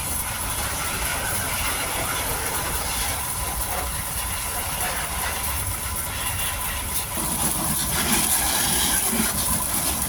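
Steady machine running noise with a constant high hiss and a low rumble.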